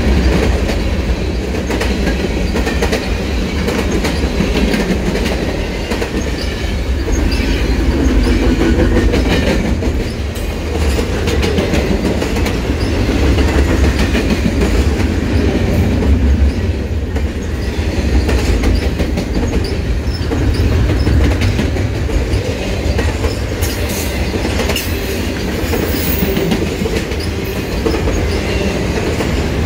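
Freight train of covered hopper cars and double-stacked container well cars rolling past at steady speed: steel wheels clicking over the rail joints over a constant low rumble, with occasional brief high wheel squeals.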